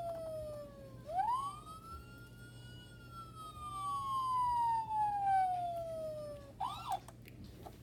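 A 1:18 scale toy police car's electronic siren wailing: the tone rises quickly about a second in, then falls slowly in pitch for several seconds, and breaks into a few short yelps with clicks near the end.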